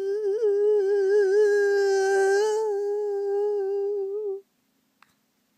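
A woman's voice holds one long vocalised note, wavering slightly in pitch, and stops abruptly about four and a half seconds in.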